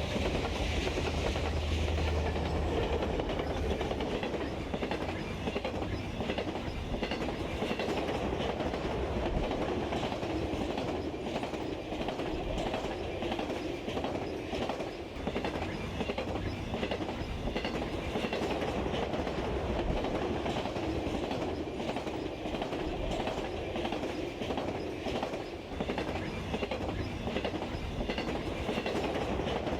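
HO scale model train running along the track: a steady rolling rattle with quick wheel clicks over the rail joints.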